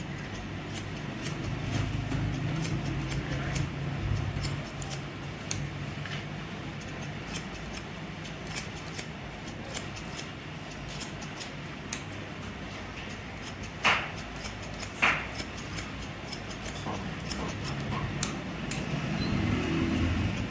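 Barber's scissors snipping through hair in quick, irregular cuts, with a low steady hum underneath.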